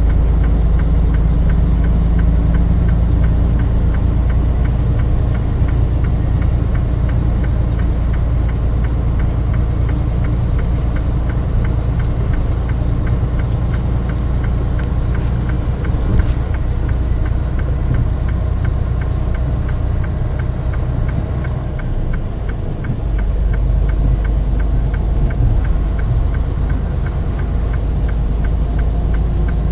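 Motor vehicle engine running steadily with a deep low rumble, easing off briefly a little over 20 seconds in before picking up again.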